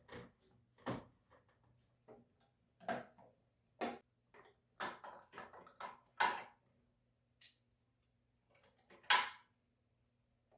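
Irregular knocks and clatters of refrigerator shelves, drawers and other parts being handled and set back in place, with a loud clatter near the end.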